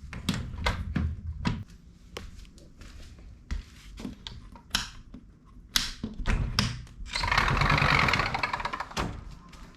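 Scattered knocks and taps of hand work in a small room, with about two seconds of harsh rasping noise starting some seven seconds in.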